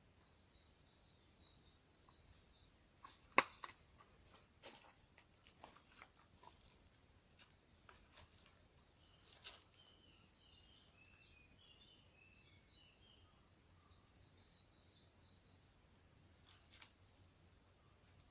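Wood campfire crackling with scattered sharp pops, the loudest a little over three seconds in. Birds chirp and twitter at a high pitch throughout.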